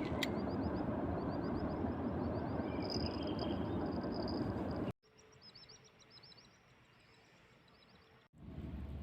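Outdoor night ambience: a steady rushing noise with rapid series of high chirping calls over it. About five seconds in it cuts abruptly to a much quieter stretch that still has high chirps, then cuts back to the rushing noise near the end.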